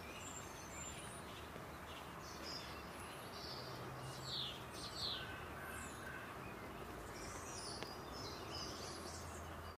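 Faint outdoor ambience: small birds chirping and calling over a steady background hiss, with a few quick falling notes about four and five seconds in.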